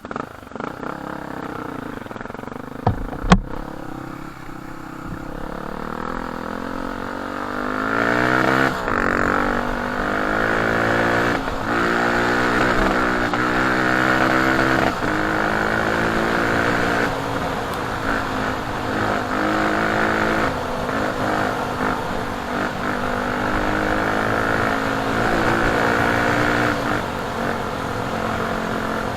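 Enduro motorcycle engine pulling away and revving up through the gears, its pitch rising and dropping again and again. A single sharp knock about three seconds in.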